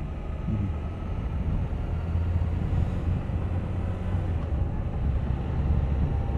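Suzuki GSX1250FA's inline-four engine running while the bike is ridden, with a steady low rumble and wind noise.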